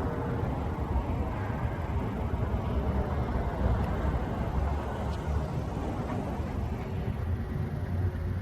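Steady low rumble of a car on the move, with road and engine noise and no distinct events.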